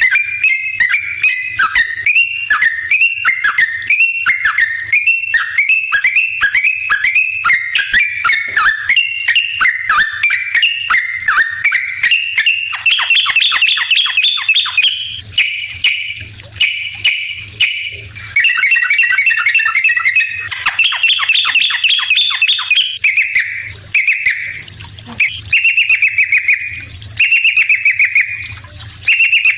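Yellow-vented bulbul (trucukan) in full song: quick runs of short, bubbly whistled notes. They pour out almost without a break at first, then about halfway through come as separate phrases with short pauses between them.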